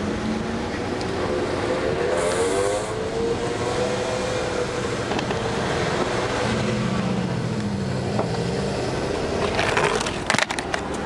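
Car engines running and revving as cars pull away, their pitch rising and falling, with a few sharp clicks about ten seconds in.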